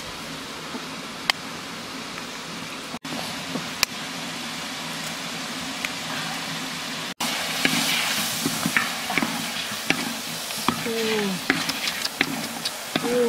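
Duck, pineapple and eggs sizzling in a large wok over an open fire. In the second half a wooden spatula stirs the food and scrapes and knocks against the wok with quick sharp clicks.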